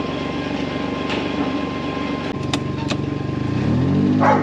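A motor running steadily, with a few sharp clicks; near the end a sound with gliding pitch, likely music, comes in over it.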